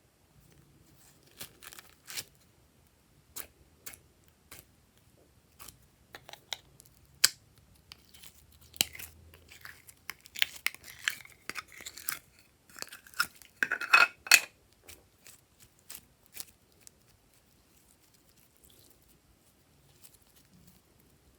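Glossy slime being pressed and stretched by hand, giving scattered sharp clicks, pops and crackles. They come thickest a little past the middle, then die away about two-thirds of the way through.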